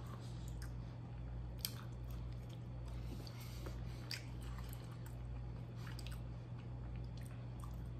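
A man chewing breaded vegan chicken nuggets in buffalo sauce, faint mouth sounds with a few small clicks, over a steady low hum.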